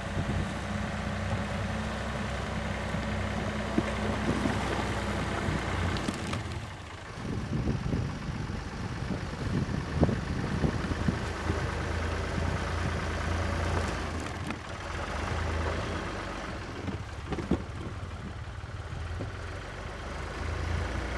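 Ford 555 backhoe's engine running steadily while the machine works, with a few sharp knocks along the way.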